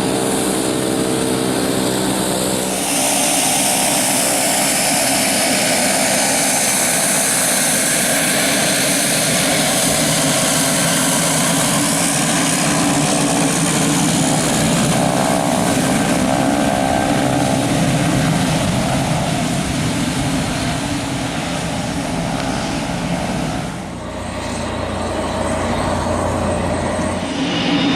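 A fixed-wing aircraft's engines running loud and steady, with a shift in tone about three seconds in and a brief dip near the end.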